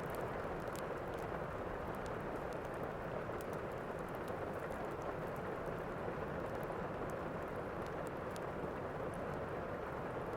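Steady rain with faint, sharp fireplace crackles scattered through it.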